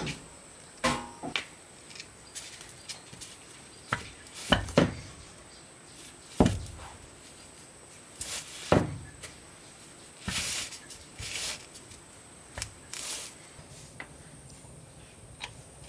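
Irregular knocks, clicks and a couple of scrapes of parts and tools being handled during vehicle repair work. The loudest are single knocks about 4.5, 6.5 and 9 seconds in, and two short scraping sounds follow about two seconds later. There is no steady machine or engine sound.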